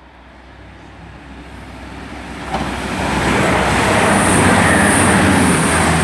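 A CrossCountry Class 220 Voyager diesel-electric multiple unit passes through the station at speed. Its noise grows steadily, jumps about two and a half seconds in and is loudest around four to five seconds in, with a low engine hum under a high whine.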